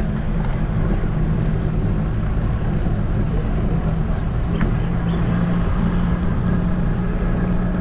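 A motor vehicle's engine running with a steady low drone, and no change in speed or load.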